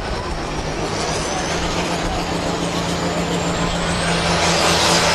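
A Pro Farm class pulling tractor's diesel engine running hard, with a high whistle that rises in pitch as the sound grows louder near the end.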